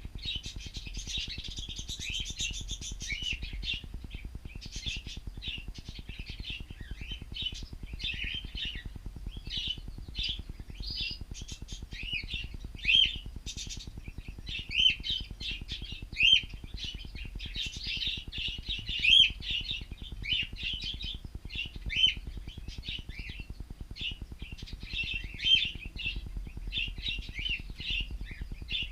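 Several cockatiels chirping and chattering without a break, with about six louder calls standing out over the second half.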